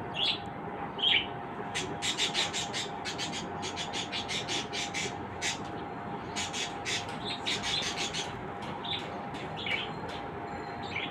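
Small birds chirping: quick clusters of short, high chirps through the middle, with a few lower sliding calls near the start and end, over a steady low hum.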